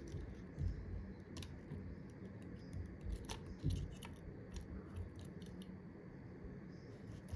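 Scattered light clicks and taps of small repair tools on a phone's internals during disassembly, with a few dull low knocks.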